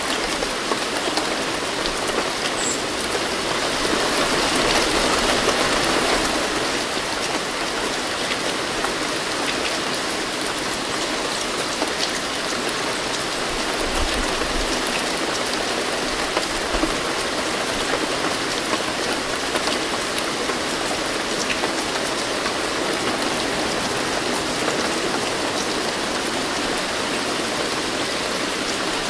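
Steady rainfall: a dense, even hiss of many drops, swelling slightly about four to six seconds in.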